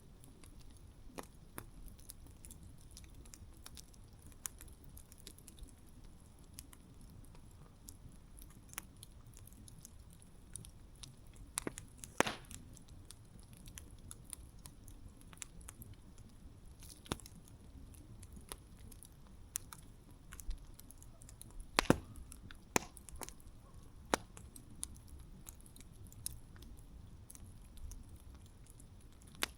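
Wood campfire burning with a low steady rush and scattered sharp crackles and pops, the loudest pops about twelve and twenty-two seconds in.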